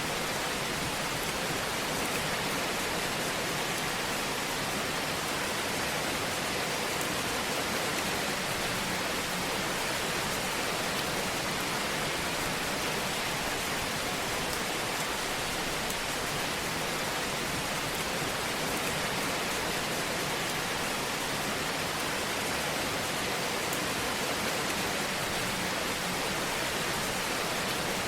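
Fireplace fire burning: a steady, even hiss with occasional faint crackles.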